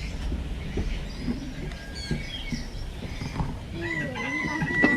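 Birds calling in a walk-through aviary: a few short high chirps, then a long steady high whistle near the end, over the faint chatter of visitors and a low rumble.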